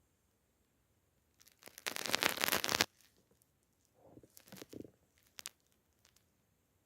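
A cat making scratchy rustling sounds: a dense burst lasting about a second and a half starting about a second and a half in, then softer rustles and a couple of small clicks.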